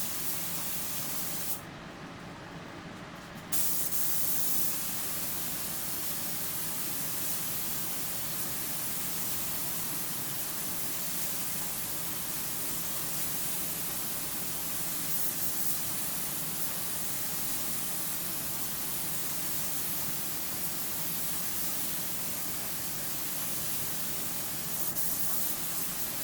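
Paint spray gun hissing steadily as it lays a coat of clear on a car body panel. The spray cuts out for about two seconds near the start, then resumes.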